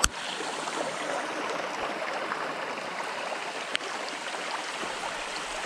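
Steady rushing of a small mountain stream mixed with falling rain. A sharp click right at the start.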